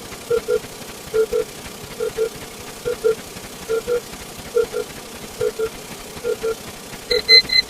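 Synthetic counter sound effect: a short double blip repeating a little faster than once a second. A quick run of high, steady beeps starts near the end.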